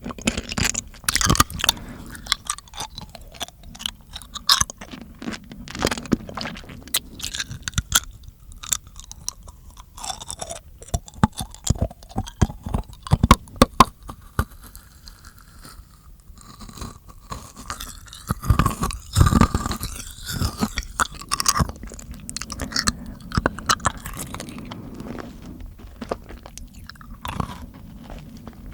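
Close-miked ASMR mouth sounds: irregular wet clicks, smacks and crunchy chewing noises, busiest and loudest about two-thirds of the way through.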